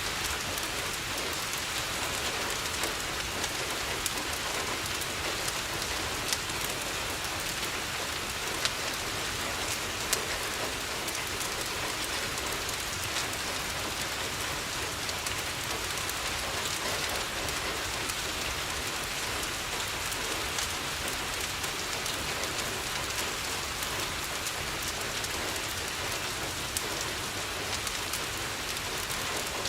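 Steady rain pattering on a window, with a fireplace crackling and a few sharp pops scattered through it.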